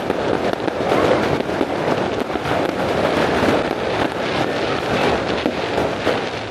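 Fireworks going off in a rapid, continuous barrage of crackling reports, dying down at the very end.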